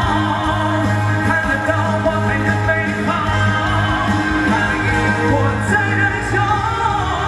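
Live performance of a pop-rock song: a male lead vocal singing over full band backing, recorded from the audience.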